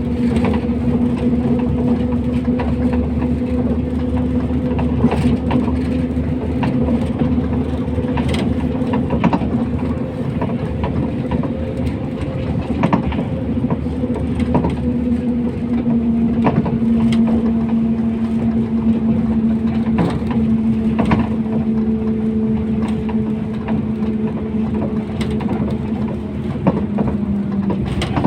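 MAZ 241.030 bus running along the road, heard from inside the passenger cabin: a steady drone with a humming tone that drops slightly in pitch twice, with frequent small rattles and knocks.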